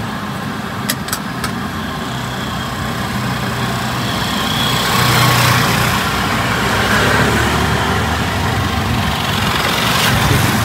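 Motor vehicle engine running steadily with street traffic, swelling about five seconds in and again near the end. Two light clicks about a second in.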